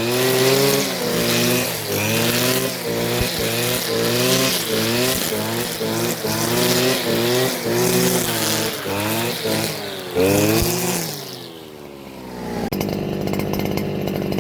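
Gas string trimmer engine revving up and down over and over as it cuts tall grass. About eleven seconds in, the pitch falls away and the engine drops back to a quieter, steadier idle.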